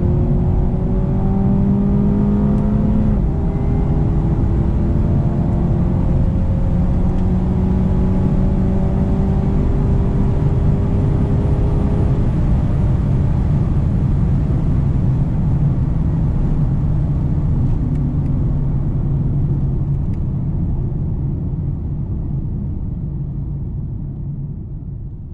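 Mercedes-AMG A 35's 2.0-litre turbo four-cylinder under hard acceleration, its note climbing slowly in pitch, with a drop at an upshift about three seconds in. After about twelve seconds the engine note gives way to a steady low rumble, which fades out near the end.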